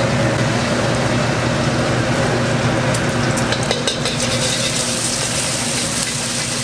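Food sizzling and being stir-fried in a hot wok, with a few light metal clicks about three to four seconds in. A steady low hum runs underneath.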